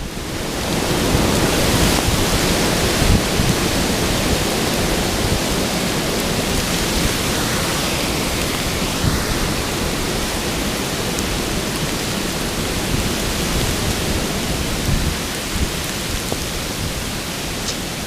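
Heavy rain pouring down: a loud, steady hiss of a downpour.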